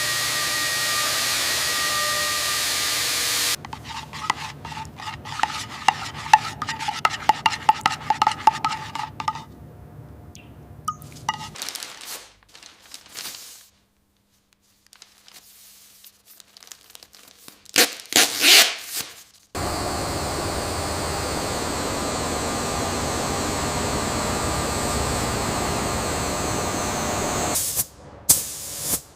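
A steady hiss of compressed air, like a spray gun, comes twice for several seconds each time. Between the two runs there are quick metallic clicks and taps, and a short near-silent pause.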